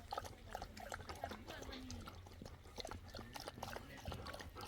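Goats close by, with many short clicks and knocks and a faint voice.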